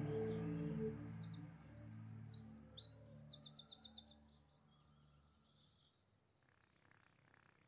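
Held music notes fade out while small songbirds chirp, ending in a quick repeated trill. After that it goes almost quiet.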